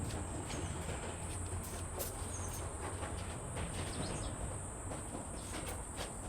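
Outdoor ambience with a steady high-pitched insect drone, a low steady rumble beneath it and a few faint scattered clicks.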